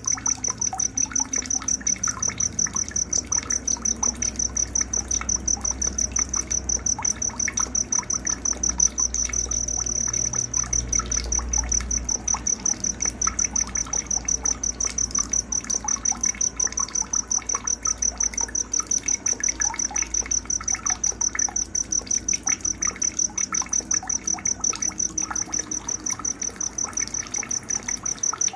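Night nature ambience: a cricket chirping steadily, a high-pitched note pulsing about three times a second, over scattered short chirps.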